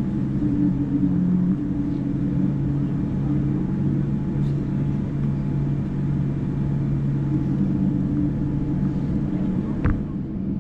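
Steady cabin hum inside a Boeing 787-9 airliner on the ground, with its engines running and the cabin air flowing, and several low steady tones in the drone. A single short knock sounds near the end.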